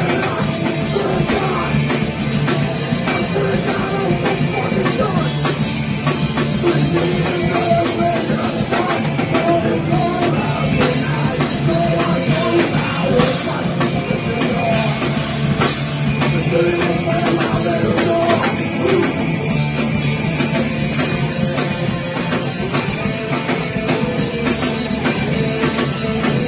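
Loud rock band playing, electric guitars and drum kit, with some singing.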